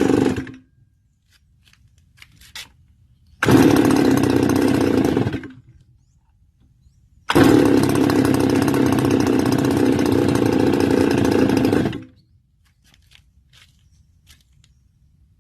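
Stihl FS280 brush cutter's two-stroke engine repeatedly catching and dying: it cuts out about half a second in, fires again for about two seconds, then runs for about four and a half seconds before shutting off near the end. The engine won't stay running, the fault being diagnosed, which gets worse as the engine gets hot.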